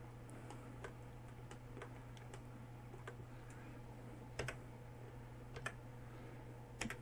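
Faint, scattered clicks of a computer keyboard and mouse, single presses spread irregularly, over a steady low electrical hum.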